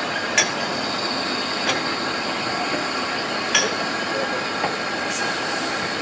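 Talyllyn Railway narrow-gauge train running, a steady rumble with a thin high wheel squeal. Three sharp clicks come through it, and a short high hiss comes near the end.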